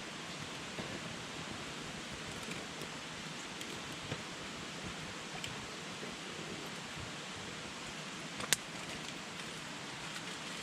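Wood campfire burning with a steady hiss and scattered small crackles, and one sharp pop about eight and a half seconds in.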